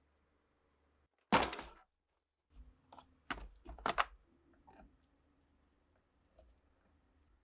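A sharp knock about a second in, then a quick run of clicks and knocks as objects are picked up and set down on a workbench.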